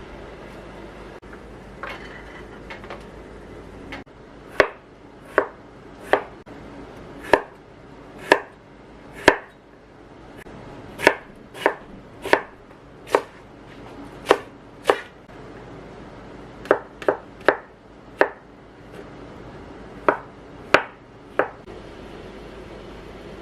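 Kitchen knife chopping on a cutting board: about twenty separate chops at an uneven, unhurried pace, starting a few seconds in and stopping a couple of seconds before the end.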